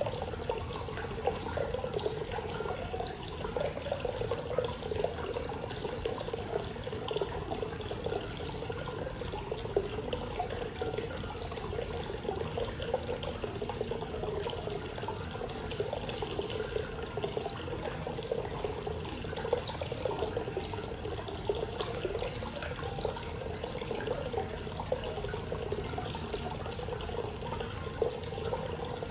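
Hot spring water pouring steadily into a bath, a continuous running flow, with a steady high cicada chorus behind it.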